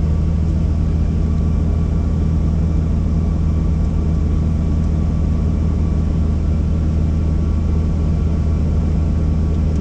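Helicopter in flight: a steady, loud drone of rotor and turbine engine, with no change in pitch or level.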